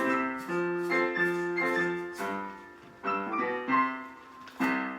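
Piano playing the instrumental close of the song, a series of notes and chords that ends on a final chord near the end, which then fades.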